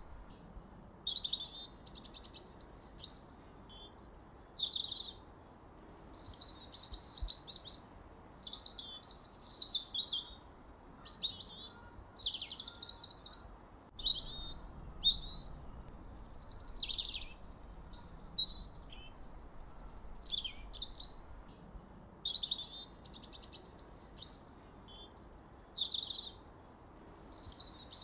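Birds singing: a continuous run of short, varied, high-pitched chirping phrases, one after another every second or two, over a faint low background hiss.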